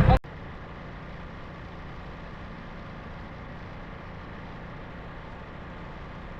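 A steady, faint engine hum with no change in pitch, after an abrupt cut from loud motorcycle engine and wind noise right at the start.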